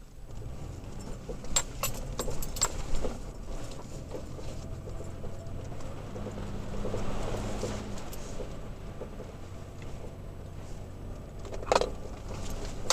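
Toyota Tacoma pickup's engine running low and steady on a rough trail, with scattered clicks and rattles, a cluster of them between about one and three seconds in and a single sharp knock near the end.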